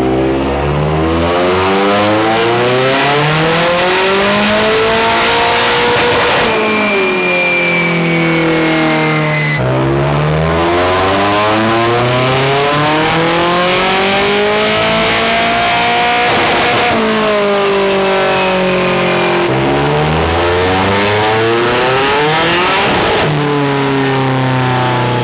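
Nissan SR20DET turbocharged four-cylinder running on a chassis dyno, revving up under full throttle for several seconds and then backing off with the revs winding down, three times; the third pull is shorter. After the first pull a high whistle falls away as the turbo spools down.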